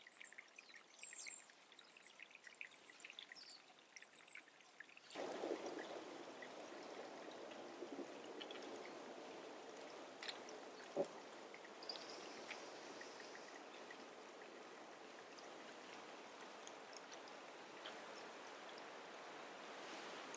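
Small birds giving short high chirps, then, about five seconds in, a sudden switch to a steady sound of running water, like a stream or a small cascade, with an occasional faint chirp over it.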